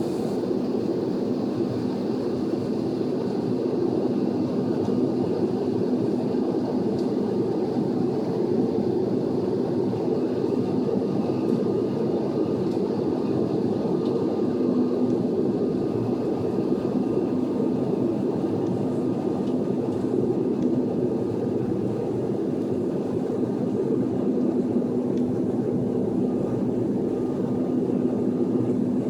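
Sukhoi Superjet 100 airliner on approach, its SaM146 turbofans and the airflow making a steady drone with a low hum running through it.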